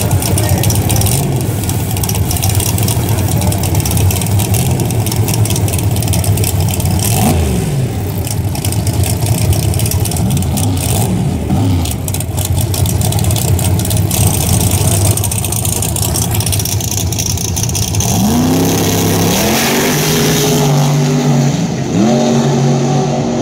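Drag race car engines running loud with a rough, choppy rumble, then revved repeatedly near the end, each rev a quick rise in pitch.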